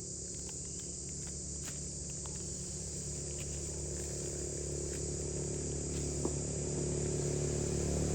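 Steady high-pitched insect chirring, with a low engine rumble slowly growing louder toward the end.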